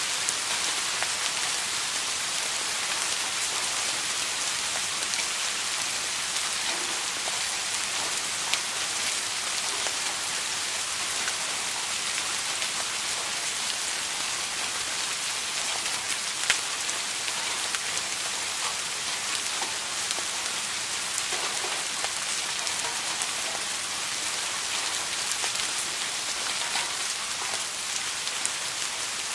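Steady rain falling on a surface: an even hiss scattered with sharp ticks of individual drops, one louder tick about halfway through.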